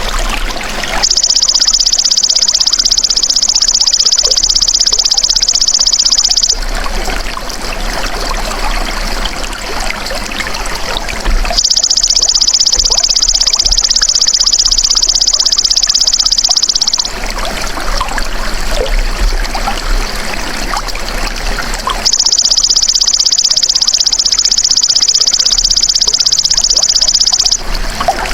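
Belalang emas (golden grasshopper) calling in three long, shrill, rapidly pulsed buzzing trills, each about five and a half seconds long and about ten seconds apart. Steady trickling water runs underneath.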